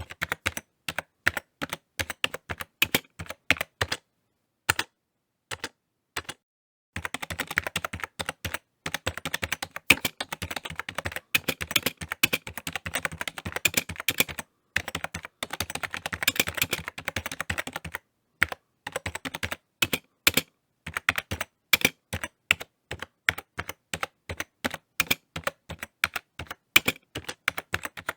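Typing on a computer keyboard: quick runs of key clicks, broken by a few short pauses, the longest a couple of seconds long about four seconds in.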